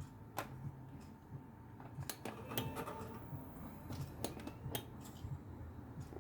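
Several sharp light clicks and clinks of small hard objects being handled, spread irregularly, over a low steady hum.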